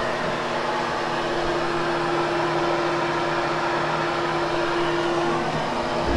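Hoover HushTone upright vacuum cleaner running steadily over damp, freshly cleaned carpet to groom and lift the pile: an even motor hum with one steady held tone under a wide hiss.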